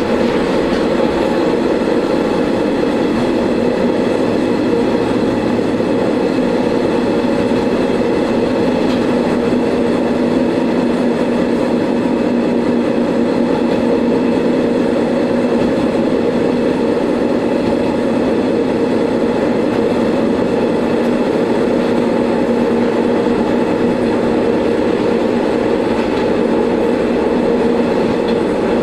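Diesel railcar under way: a steady engine drone with continuous wheel-on-rail running noise, unchanging throughout.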